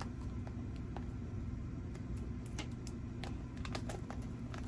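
Faint, scattered light clicks and rustles of paper and packaging being handled, over a steady low room hum.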